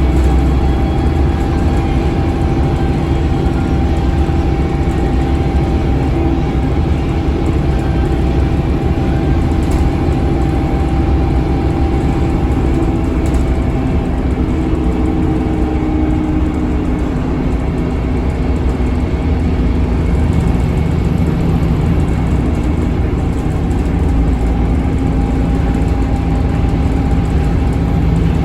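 Scania DC9 five-cylinder diesel engine of a Scania K280UB bus running steadily under way, with a ZF Ecolife automatic transmission. The engine note changes pitch around the middle and again about two-thirds of the way through, as road speed and load change.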